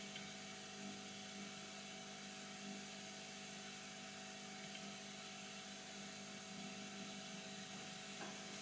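Steady low electrical hum with a faint high hiss from motor-driven bench equipment.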